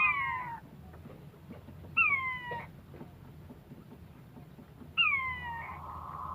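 An animal calling: three short, sharply falling calls about three seconds apart. A steady high hum fades after the first call and comes back near the end.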